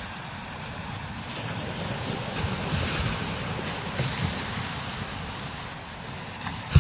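Strong desert wind gusting in a steady rush, with wind buffeting the microphone in low rumbles. A sharp, loud buffet comes near the end.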